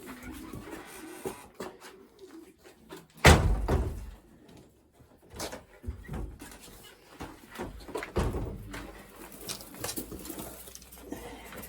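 Racing pigeons cooing faintly among scattered knocks, with a loud bang about three seconds in and another heavy thump about eight seconds in.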